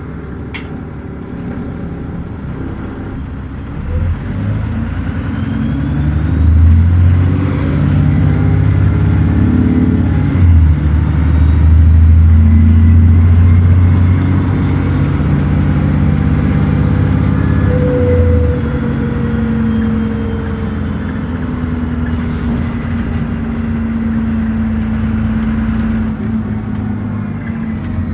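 Dennis Trident double-decker bus's diesel engine, newly refitted, accelerating hard under kickdown, heard from on board. The revs climb and fall back at a gear change about ten seconds in and again about eighteen seconds in, then run on in third gear.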